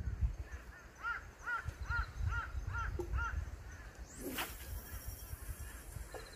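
A bird calling in a quick run of about seven short, arched calls, with a steady low rumble underneath and a brief rising swish about four seconds in.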